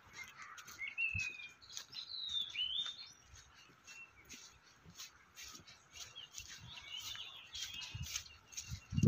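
Birds chirping and whistling in short rising and falling phrases, with soft footsteps on a gravel path.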